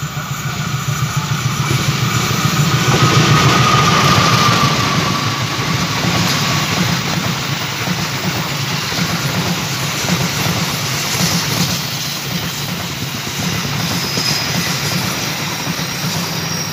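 A CC206 diesel-electric locomotive hauling a passenger train passes close by. Its engine is loudest about three to four seconds in, with a brief high whine that falls slightly in pitch. The coaches then roll past with a steady clatter of wheels on the rails.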